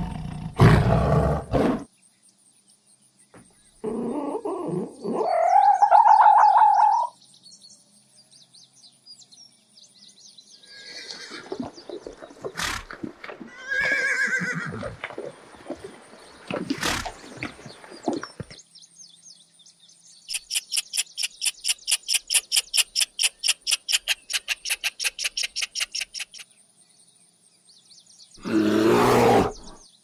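A string of different animal calls. A lioness's roar ends within the first two seconds, and a horse neighs about halfway through. Later comes a fast rattling call of about five pulses a second that lasts several seconds, and a loud low call near the end.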